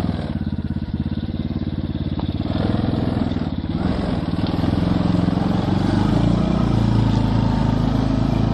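Small engine of a home-built mini car running steadily under throttle, its individual firing pulses audible, the pitch shifting lower and heavier about four seconds in as it comes under load.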